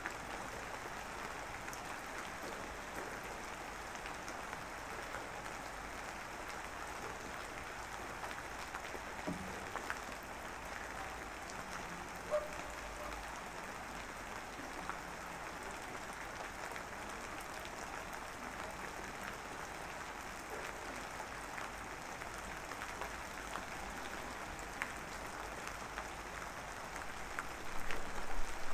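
Steady rain falling, an even hiss with a scatter of small drop ticks, growing louder right at the end.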